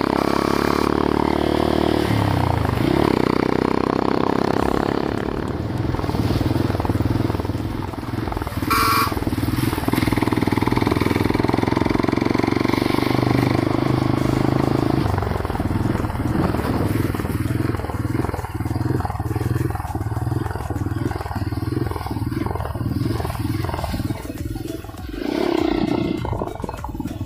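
Hero Honda Karizma ZMR's 223 cc single-cylinder engine running while the bike is ridden. Its pitch dips about two seconds in, holds steady for a while, and takes on a pulsing note over the last ten seconds.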